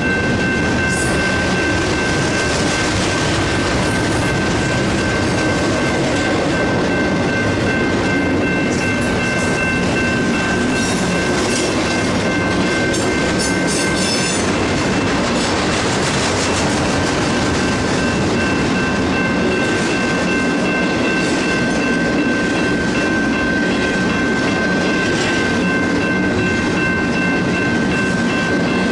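Double-stack intermodal well cars of a long freight train rolling steadily past, their wheels clattering over the rails in a continuous rumble. A steady high ringing tone carries on throughout, and bursts of sharp clicks come between about 9 and 16 seconds in.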